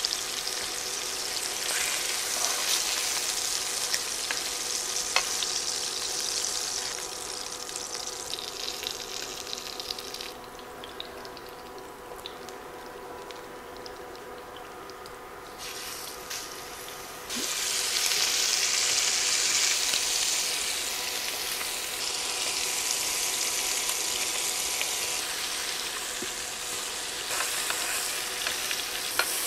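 Pork chops sizzling in hot oil in a skillet. The sizzle falls quieter for a few seconds after the pan is emptied, then jumps louder a little past halfway as raw chops are laid into the hot fat.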